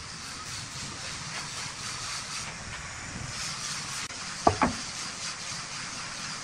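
Wood lathe running with a steady hiss, with two sharp knocks close together about four and a half seconds in.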